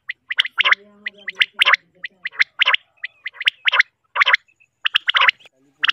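Common quail calling: sharp, short notes repeated in quick clusters, several birds overlapping, with low humming notes in between.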